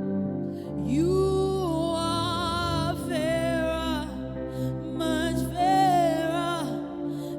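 Slow gospel worship music: a voice sings long, wavering melodic phrases over sustained accompanying chords.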